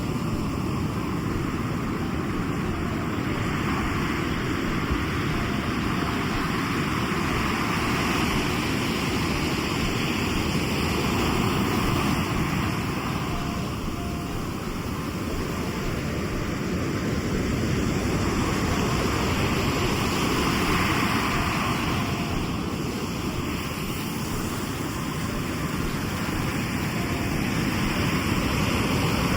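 Sea waves breaking and washing up the shore: a continuous rush of surf that swells and ebbs every few seconds over a deep, steady rumble.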